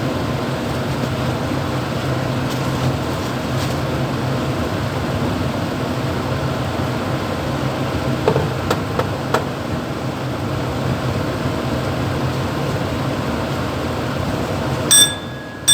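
Steady running noise of a Mumbai suburban EMU train heard inside the motorman's cab, with a low hum and a few faint clicks or rattles. Near the end come two short, bright bell-like dings, after which the running noise falls away.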